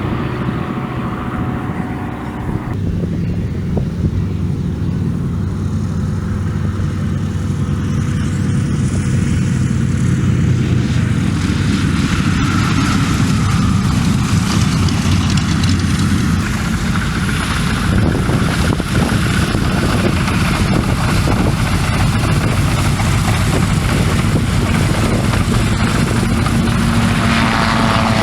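A CA-13 Boomerang's 14-cylinder radial engine running steadily, with its propeller, louder from about ten seconds in.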